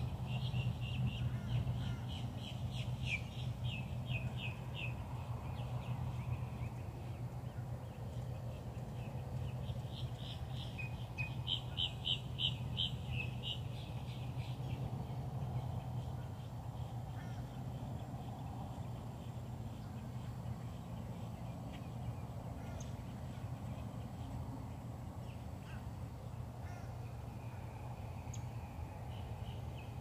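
Birds calling in rapid runs of short, high, repeated notes, in two bouts in the first half and only a few scattered calls after, over a steady low hum.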